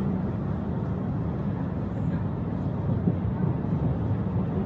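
Electric cave train's open carriages rolling along the rails, a steady low rumble.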